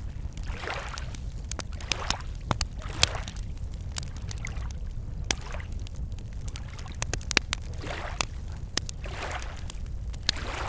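Wood campfire crackling with frequent sharp pops, over small lake waves lapping against the shore in soft swells every second or two.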